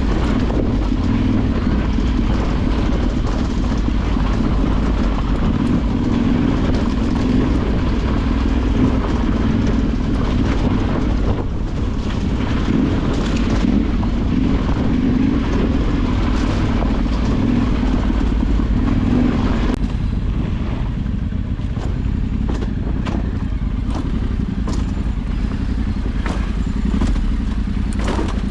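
Trail motorcycle engine running under steady throttle while riding a rough off-road track. About twenty seconds in the engine note drops back, and scattered knocks and rattles from the ground and bike follow.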